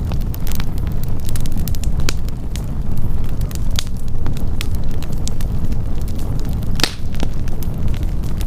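Wood campfire burning, with a steady low rumble and frequent irregular crackles and pops from the burning logs; one sharper pop stands out near the end.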